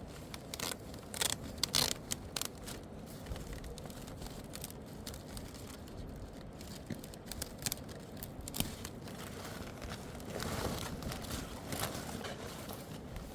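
Irregular sharp clicks and scrapes, thickest in the first couple of seconds, then a longer rough scraping about ten seconds in: the noise of hands at work on rough materials.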